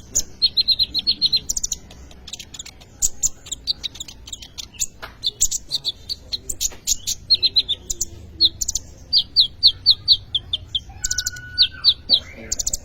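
Sunbird (kolibri ninja) singing energetically: fast runs of short, sharp, high chirps repeated in quick series, broken by brief pauses.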